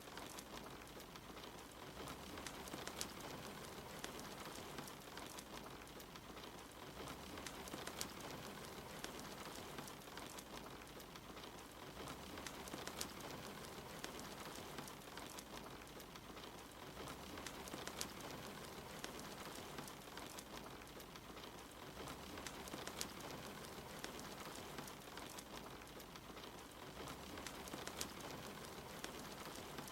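Steady soft rain mixed with a crackling wood fire, with many sharp small pops scattered through it.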